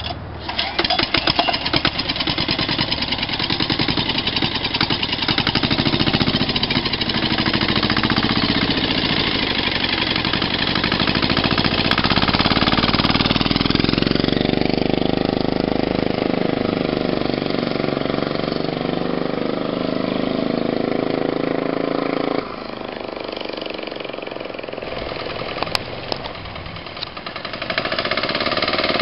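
Turbocharged 406 cc single-cylinder air-cooled diesel engine (a copy of a 10 hp Yanmar) running on a mini bike, with a fast, hard knocking beat. Its pitch shifts about halfway through, and it runs quieter for several seconds toward the end before picking up again.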